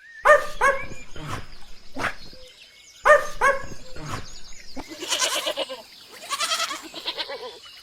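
Goats bleating: two short calls about half a second apart, the pair repeated about three seconds in, then two longer wavering bleats in the second half.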